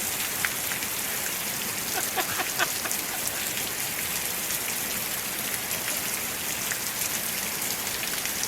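Steady rain falling, an even hiss of drops, with a few short, louder ticks about two to three seconds in.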